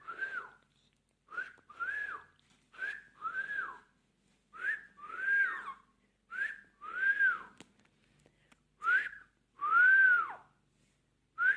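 A two-note whistle repeated six times, each time a short rising note followed by a longer note that rises and falls, the later phrases louder and longer.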